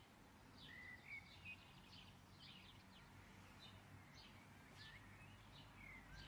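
Near silence: faint room ambience with scattered small bird chirps in the background.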